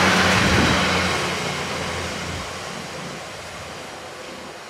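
Yellow engineering train passing close by and pulling away: its engine hum and the rumble of wheels on rail are loud at first, then fade steadily as it recedes.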